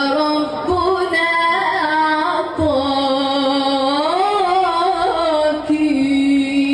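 A woman singing Arabic religious inshad (Islamic devotional chant) alone, drawing out the final line in a long melismatic phrase of held notes that slide up and down in pitch and settles on one long steady note near the end.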